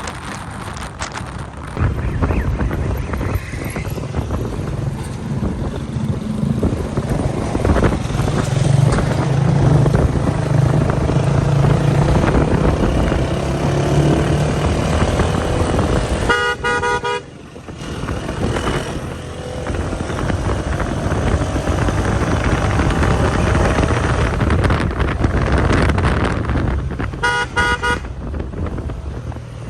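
A motor vehicle engine running steadily with wind rush, its pitch rising and falling slowly. A horn honks twice, each time for about a second: once about halfway through and once near the end.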